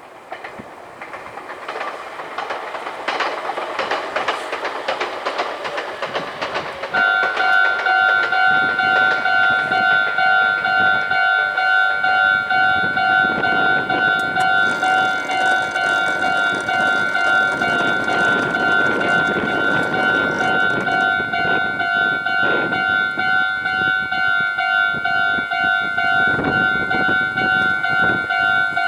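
An electric train runs by, its rolling noise growing over the first seven seconds. About seven seconds in, a pulsing two-tone electronic warning bell like a level-crossing alarm starts and keeps ringing over the continuing train noise, with a few sharp wheel clicks.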